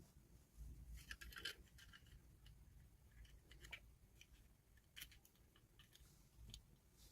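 Faint scattered clicks and scratches of small plastic toys and packaging being handled, a few short sounds about a second in and again around five seconds, otherwise near silence.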